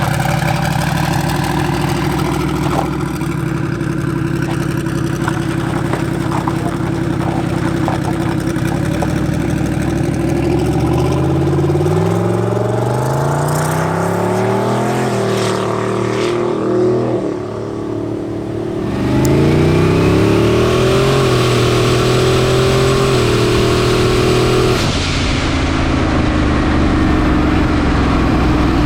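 Twin-turbo LS V8 of a Chevy S10 drag truck driving, steady at first, then climbing in pitch as it accelerates, easing off briefly about two-thirds through, and climbing again before settling.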